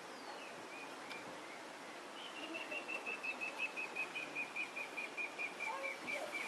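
A bird singing: a few short chirps, then from about two seconds in a long rapid trill of repeated short high notes, about six a second, slowly falling in pitch.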